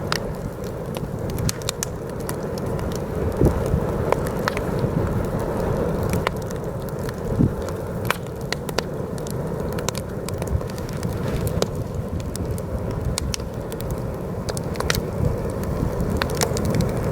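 Campfire crackling, with many sharp pops and snaps scattered throughout, over the steady low rumble of heavy wind blowing.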